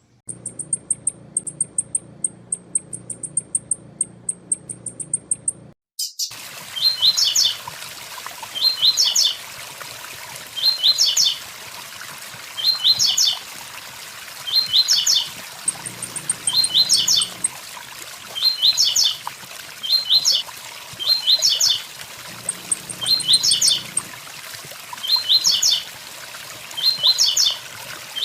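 Blue-black grassquit (tiziu) song, a short high 'tui tui zel zel' phrase repeated every two to two and a half seconds over the steady rush of a waterfall. For the first six seconds, before the water comes in, there is a rapid series of high dry ticks, about five a second.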